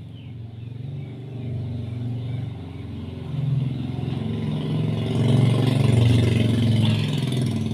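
A motor vehicle's engine running and growing steadily louder, as if approaching, then dropping off sharply near the end.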